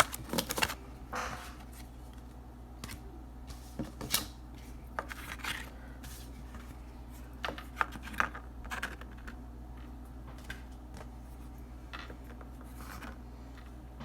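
Oracle cards being handled: irregular clicks, taps and short rustling scrapes as the cards are shuffled and set down, busiest in the first half and thinning out toward the end.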